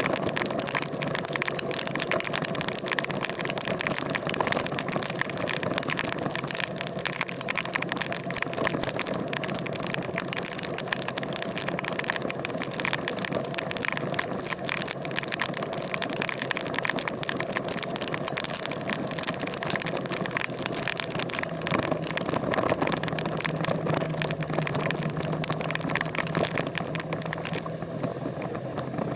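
Steady vehicle engine noise under a dense, crackling hiss, with a low hum that strengthens about two-thirds of the way through.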